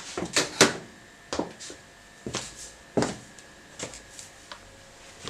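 High-heeled shoes clicking on a hard kitchen floor, about six sharp heel strikes at uneven spacing.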